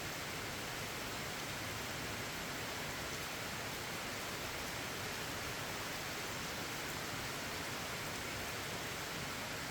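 Steady rainfall, an even hiss without distinct drops or thunder.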